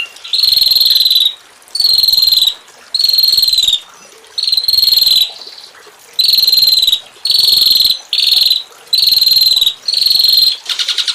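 A cricket singing in repeated buzzy, rapidly pulsed chirps, about nine of them, each under a second long with short pauses between.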